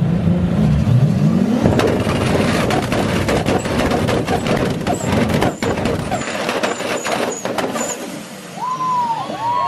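Tuned performance cars revving hard in an exhaust competition, with a rapid run of sharp exhaust bangs and crackles from about two seconds in until near the eighth second. Then the noise eases off.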